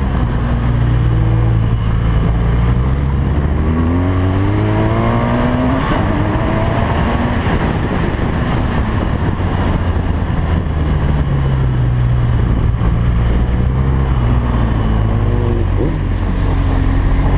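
BMW R1200GS LC boxer-twin engine pulling hard under acceleration at racing speed. Its pitch rises and falls back several times, most clearly about four to six seconds in, over a steady rush of wind noise.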